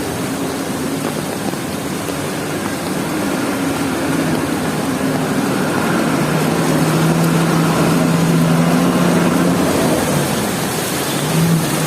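A motor vehicle's engine running close by over a steady hiss of heavy rain. The engine's hum grows louder about six seconds in, drops away near ten seconds and comes back near the end.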